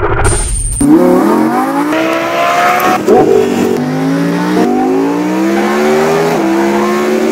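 Lamborghini Huracan's V10 through a Kline Inconel valve exhaust, accelerating hard through the gears: a low rumble, then an engine note that climbs and drops sharply at each of three upshifts.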